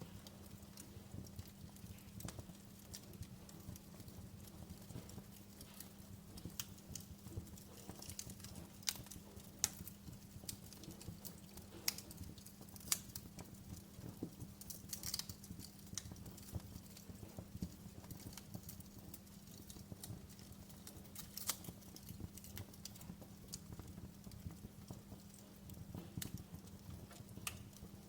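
Wood fire crackling: frequent irregular snaps and pops, a few of them louder, over a low steady hum.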